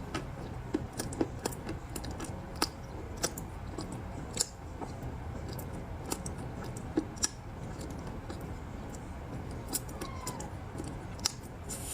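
Ice balls giving off scattered sharp clicks and small cracks, roughly one a second, over a steady low hum.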